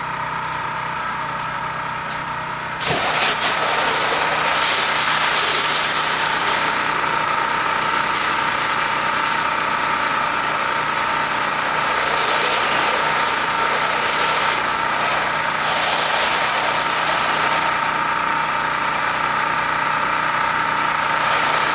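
Pressure washer's engine running steadily; about three seconds in the spray starts and a loud hiss of high-pressure water joins it, continuing as mildew is sprayed off the house.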